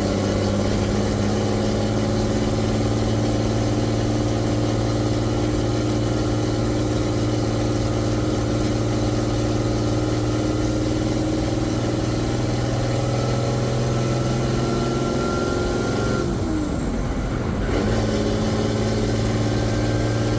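M35A2 deuce-and-a-half's turbocharged multifuel engine running steadily under way, with a faint whine rising in pitch. About sixteen seconds in the engine note drops away briefly, then picks up again.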